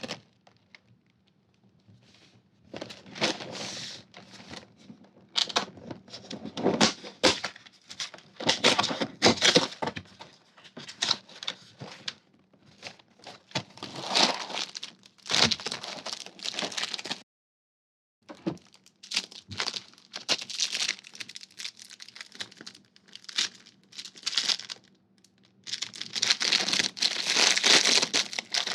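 Plastic snack packaging crinkling and tearing in irregular bursts of handling, with cracking sounds among them. It cuts to silence for about a second midway.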